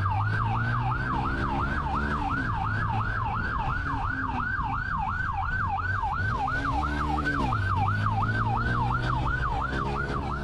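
Police car siren in the fast yelp mode, sweeping up and down about three and a half times a second, over the pursuing car's engine speeding up and easing off.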